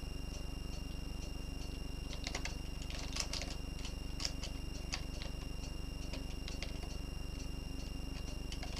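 Scattered clicks of a computer keyboard and mouse, in small clusters, over a steady electrical hum with a fast, even buzz from the recording setup.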